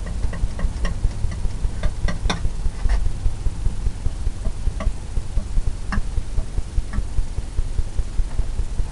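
Palette knife mixing oil paint on a palette: scattered light clicks and taps over a low rhythmic throbbing of about three pulses a second.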